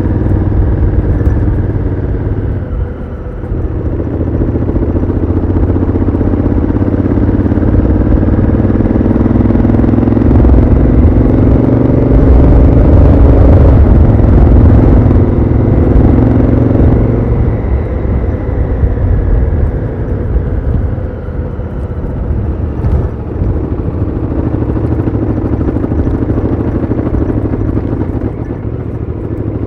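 Honda Africa Twin CRF1000L's 998 cc parallel-twin engine through its stock exhaust, heard onboard while riding. The engine note dips briefly about three seconds in, then climbs steadily in pitch for over ten seconds before falling back and holding a steadier, lower note.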